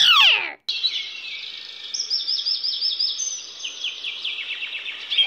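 Forest ambience of songbirds singing, with repeated chirps and quick trills. It opens with a short, loud falling glide.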